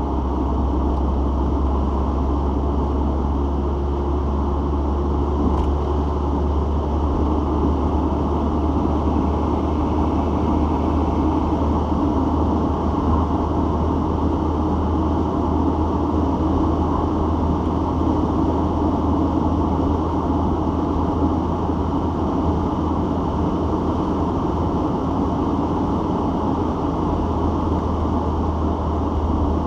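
Citroën XM being driven, heard from inside the cabin: a steady low drone of engine and road rumble, holding an even level with no gear changes or revs that stand out.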